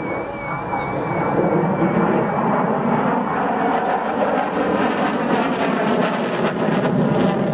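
Saab Viggen's jet engine running in a display flypast: a loud, steady rushing noise that grows a little louder after about a second.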